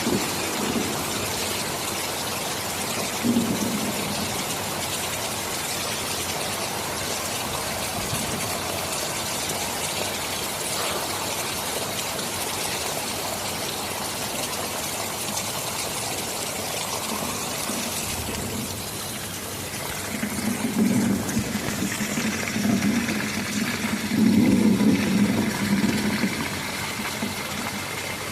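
Steady heavy rain. A low rumble of distant thunder swells about twenty seconds in and fades near the end, after a brief shorter rumble a few seconds in.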